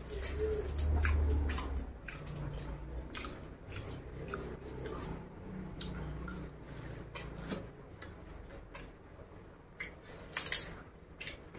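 Close-miked chewing and wet mouth clicks of someone eating raw leafy greens, rice and fried salted fish by hand. A brief, louder crisp crackle comes about ten seconds in.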